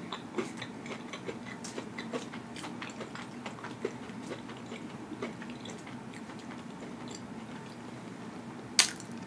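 A person chewing food with lips closed, picked up close: soft, irregular wet mouth clicks, with one sharper click near the end.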